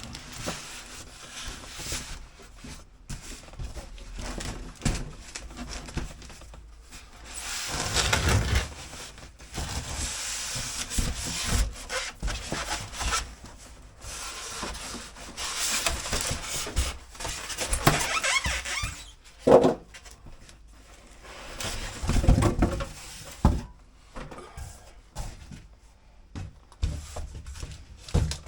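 Cardboard box and packing material rubbing, scraping and squeaking as a boxed diesel heater unit is worked out of its packaging, in irregular bursts. There is a sharp knock about two-thirds of the way through and a few heavier thumps soon after.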